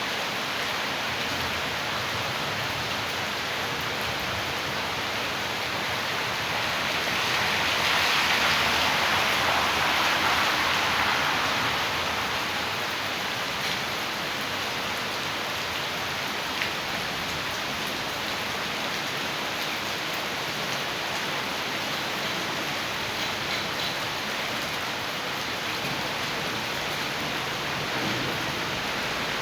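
Heavy rain and rushing rainwater runoff: a steady hiss that swells louder for a few seconds about a quarter of the way through.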